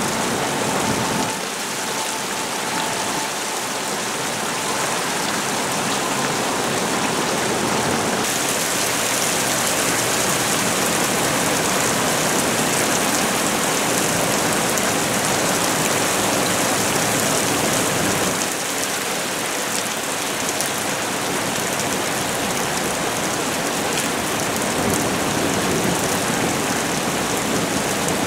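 Heavy rain pouring onto pavement and parked cars, a steady hiss of downpour that changes character abruptly twice, once about eight seconds in and again about ten seconds later.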